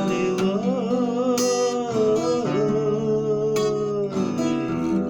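A voice sings the word "налила" in Russian as one long, wavering held note over a strummed acoustic guitar; the guitar carries on alone near the end.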